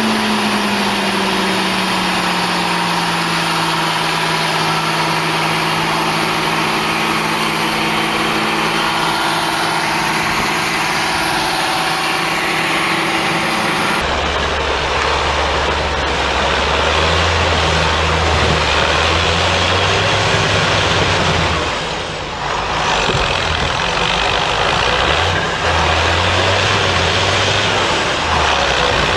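Heavy vehicle engines running. In the first part an engine note falls as the engine slows and then holds steady. About halfway through, the sound cuts abruptly to a deeper engine that labours, rising and falling in pitch.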